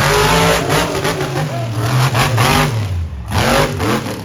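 Monster truck engine revving, its pitch rising and falling with the throttle, dipping briefly about three seconds in before climbing again.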